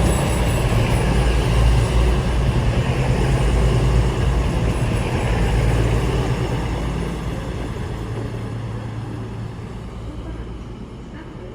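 A train running through the station, a loud low rumble that fades steadily over the second half.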